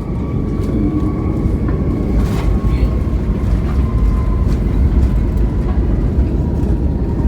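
Airliner cabin noise on the ground after touchdown: a steady low rumble from the wheels rolling on the runway, with a faint steady whine and a few rattles in the cabin.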